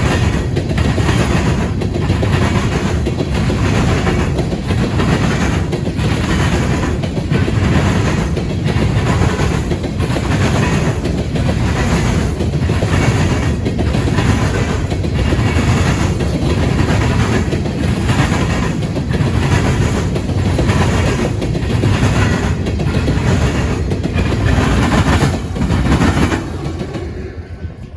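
Grain train's cars rolling past, their wheels clattering over the rail joints and crossing diamond in a steady, even rhythm. The sound dies away near the end.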